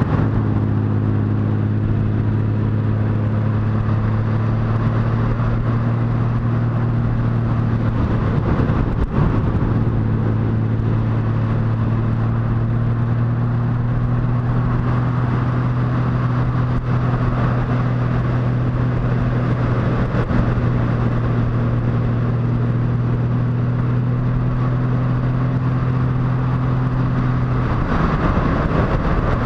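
Motorcycle engine running at a steady cruise under a rush of road noise, its drone dropping out briefly about nine seconds in and again near the end, as with gear changes.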